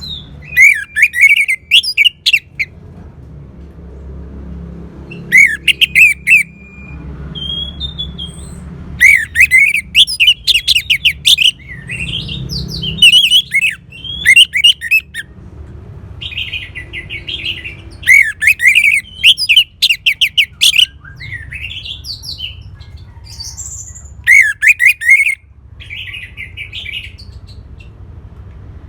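Orange-headed thrush song: loud bursts of rapid, sweeping notes every few seconds, over a steady low hum.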